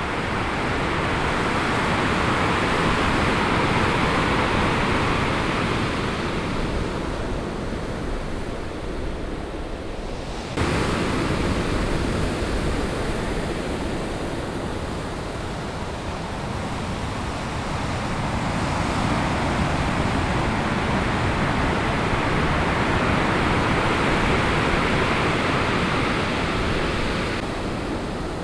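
Heavy typhoon swell breaking on the beach: a loud, continuous rush of surf that builds and fades in long surges, with an abrupt jump in sound about ten seconds in.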